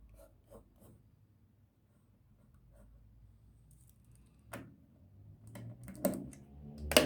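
Scattered clicks and knocks of small hard objects being handled: a few faint ones at first, then a quicker run from about halfway, the loudest near the end.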